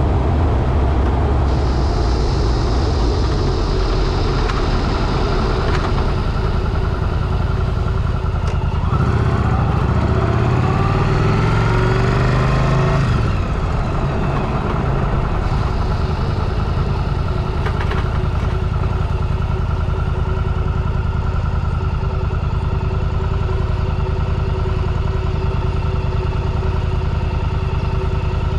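Motorcycle engine running under way, with a steady engine note, rising in pitch for a few seconds about a third of the way through as it accelerates, then settling back.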